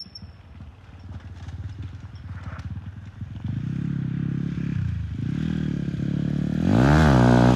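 Dirt bike engine running at low revs, quiet at first, then picking up about three and a half seconds in, with a quick rev that rises and falls near the end.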